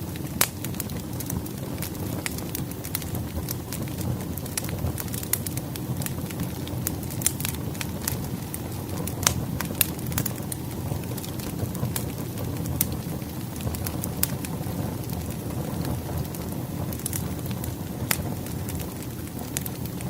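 Wood fire burning, with a steady low rumble and frequent sharp crackles and pops from the logs.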